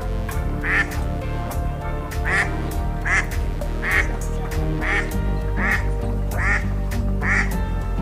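An animal call repeated about once a second, each call short, over steady background music.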